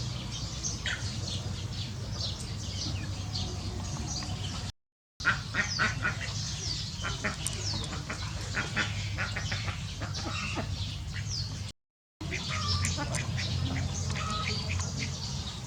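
Many birds calling at once: dense short chirps and falling peeps, over a steady low hum. The sound cuts out abruptly twice, just before 5 seconds and near 12 seconds.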